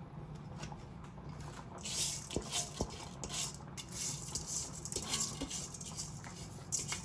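A spoon stirring rice in a pot of liquid: repeated swishing strokes from about two seconds in, with a few light clinks against the pot.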